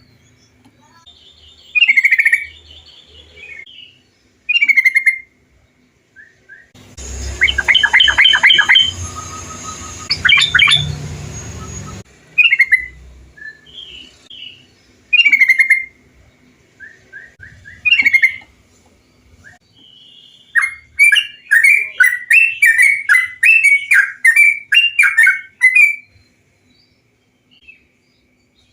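Yellow-vented bulbul (trucukan) song: short bubbly phrases every couple of seconds, part of it over a steady hiss, and a quick run of chattering notes about three quarters of the way through.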